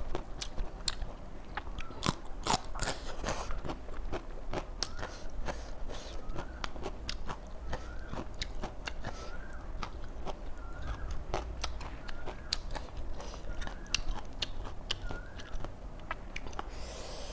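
Close-up biting and chewing of crunchy raw vegetables, with many sharp crunches throughout.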